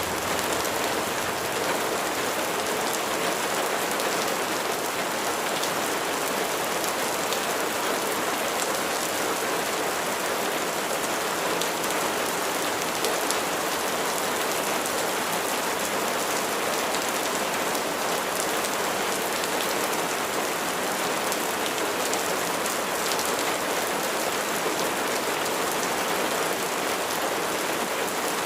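Steady rain falling, an even hiss with many fine drop patters and no change in strength.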